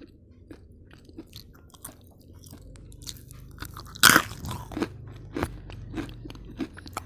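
A person chewing crisp fried kue bawang (small savoury flour crackers): a run of small crunches, with one louder crunch about four seconds in.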